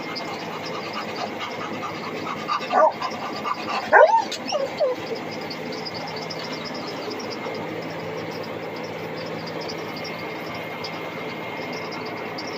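A dog barking and yipping in a few short bursts about three and four seconds in, over the steady hum of a running tractor.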